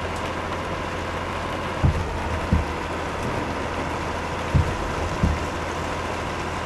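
Truck running on the road: a steady engine and road hum, with pairs of short low thumps, the second about two-thirds of a second after the first, coming round about every two and a half seconds.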